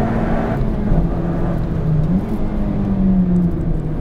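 Toyota Yaris GRMN's supercharged 1.8-litre four-cylinder engine running under load on track. Its note dips about a second in and climbs again a little after two seconds, then eases slightly near the end.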